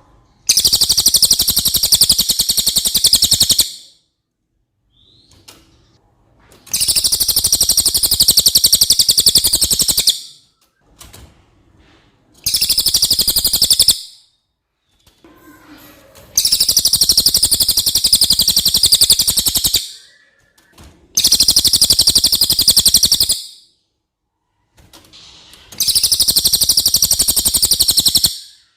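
Cililin bird singing: six very high, rapid trills of one and a half to three and a half seconds each, with short pauses between them.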